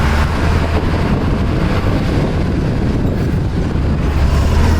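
Truck engine running with a steady low drone under rough road and wind noise while the truck is driving.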